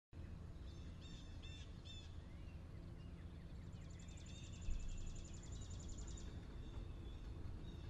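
Ambience of birds chirping over a steady low rumble, cutting in at once from silence, with a fast, even trill from one bird in the middle and a brief low thump about halfway through.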